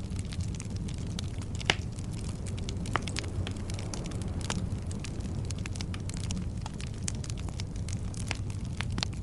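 Wood logs burning in a fireplace: a steady low rumble of flames under frequent crackles and small pops, with two sharper pops about two and three seconds in.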